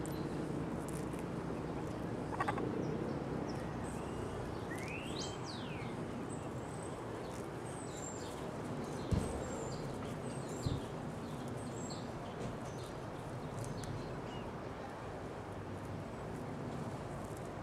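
Small birds chirping with short, high notes and one swooping call, over a steady outdoor background hiss. Two brief knocks a little past halfway.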